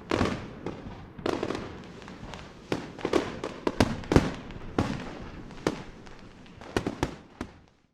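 Wood fire crackling, with irregular sharp pops and snaps over a low hiss. The loudest pop comes about four seconds in. The crackle thins out near the end.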